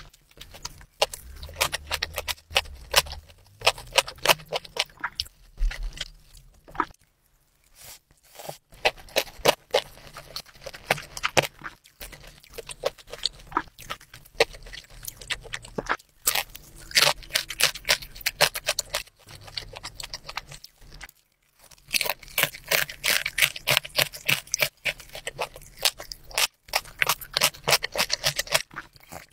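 Close-up ASMR eating sounds: a person chewing crispy pan-fried dumplings (mandu), rapid crunching in dense runs broken by a few brief pauses.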